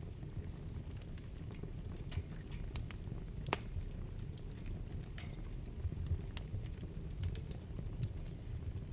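Wood fire burning in a fireplace: a steady low rumble of flames with scattered sharp crackles and pops from the burning logs, one louder pop about three and a half seconds in.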